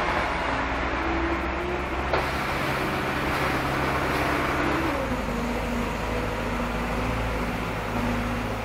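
Heavy diesel machinery running: the engines of Manitou telehandlers and a Scania truck at work. The engine note shifts about five seconds in, and there is one sharp click around two seconds in.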